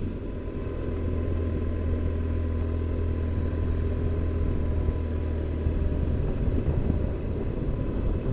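BMW R1200GS Adventure's flat-twin engine running at a steady cruise, a low drone under road and wind noise.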